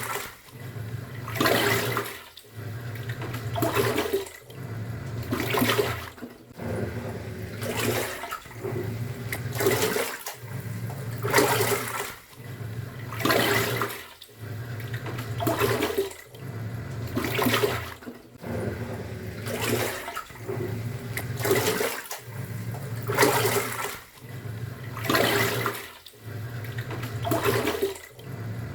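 Top-loading pulsator washing machine agitating: the motor hums for about a second and a half, stops briefly and reverses, roughly every two seconds, with a splash of sloshing water at each reversal.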